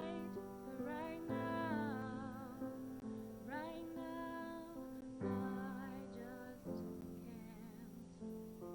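Music: a woman singing with vibrato over an instrumental accompaniment, with a long held, wavering note about three and a half seconds in.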